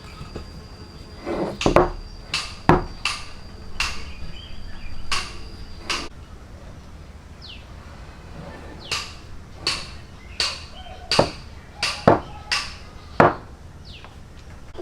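Sharp knocks of hand tools striking wood, in two irregular runs of about seven strikes each, some with a short ringing tail.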